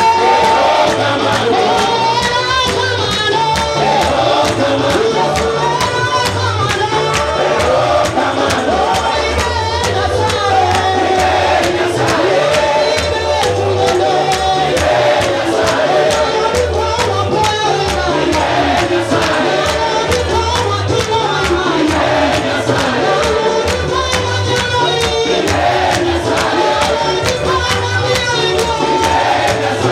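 Gospel music: a group of voices singing together over a band with a steady, repeating bass beat.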